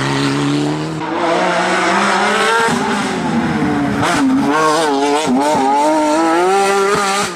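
Rally car engine revving hard under acceleration, its pitch climbing and then dropping sharply at gear changes, with the note wavering up and down on and off the throttle through the second half.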